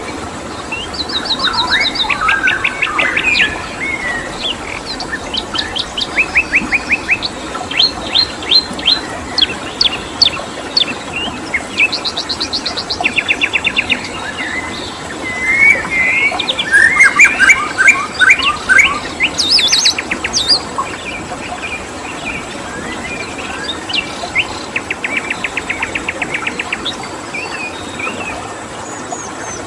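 Several wild songbirds singing and calling together, with rapid trills of fast repeated notes and short chirps overlapping. The birds are busiest about two-thirds of the way through, over a steady background hiss.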